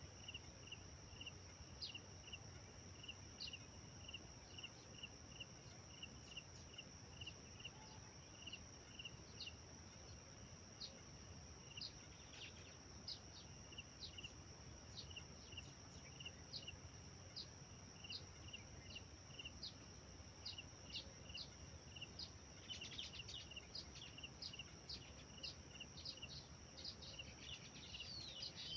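Faint natural ambience: a steady high insect drone, with a bird giving short chirps over and over, about two a second, and quick high call notes. A brief flurry of calls comes about two thirds of the way through, and louder birdsong starts right at the end.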